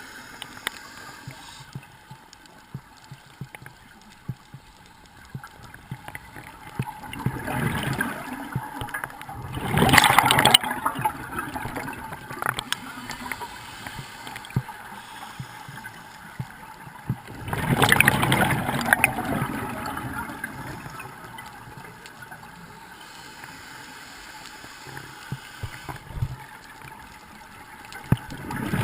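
Scuba diver's exhaled bubbles rushing and gurgling underwater, in three surges about ten seconds apart, the last starting near the end. Faint crackling runs in between.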